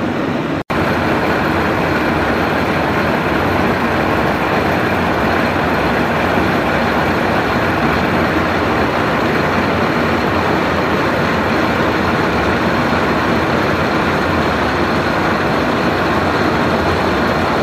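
Bush hammering machine running, its hammer heads pounding a marble surface in a dense, steady noise, with a brief break in the sound about half a second in.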